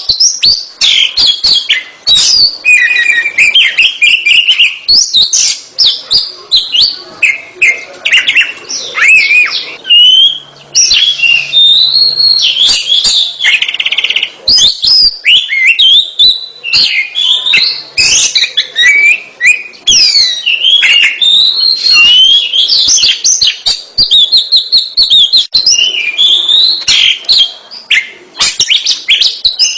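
Oriental magpie-robin (kacer) singing loud, rich, varied song: fast whistles, trills and chirps strung together almost without a pause.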